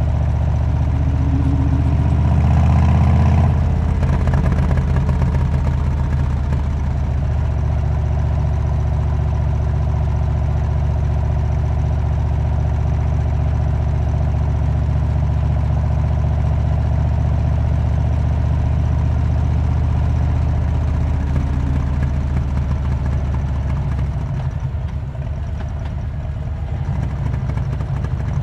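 Harley-Davidson Road King's V-twin engine running through a Cobra aftermarket exhaust, a steady low exhaust note. It swells a little about two to three seconds in and dips slightly near the end.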